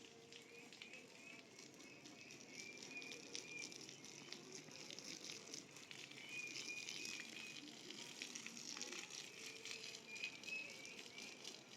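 Faint outdoor sound: short, repeated bird-like chirps over light crackling and rustling.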